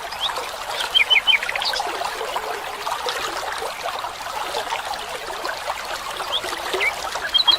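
Forest stream running steadily with a trickling sound, while small birds chirp: a quick series of short high notes about a second in and a few more chirps near the end.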